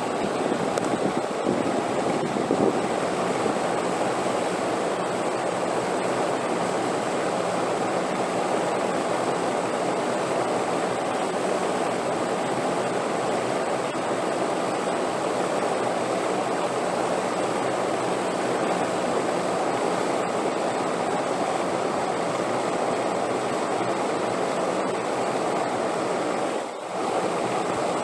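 Steady wind noise, an even rushing without distinct gusts, briefly dipping near the end.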